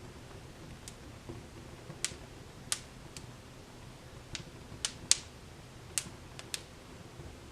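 Wood fire in a fireplace crackling: irregular sharp pops and snaps, about ten of them, the loudest a little past halfway, over a faint low steady background.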